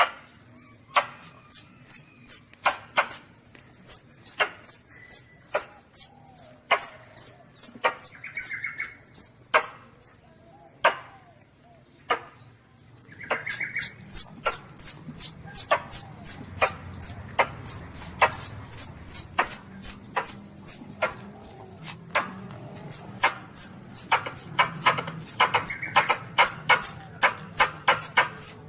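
Recorded distress calls of a young Asian palm civet (luwak) played as a hunting lure: a rapid series of short, high-pitched squeaks, each falling in pitch, about two to three a second, with a brief pause about halfway through.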